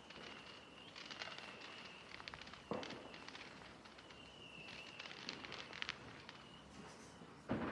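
Distant fireworks: bursts of crackling, with a louder bang about three seconds in and another near the end. A thin, steady high whistle comes and goes.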